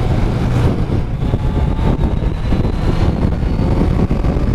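Kawasaki Z900's inline-four engine running on the stock exhaust while the bike is ridden hard, with wind rushing over the microphone.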